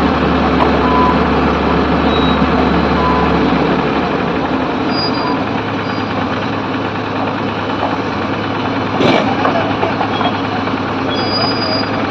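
Heavy diesel construction vehicle engine running, its low engine note changing about three and a half seconds in, with a single sharp knock about three quarters of the way through.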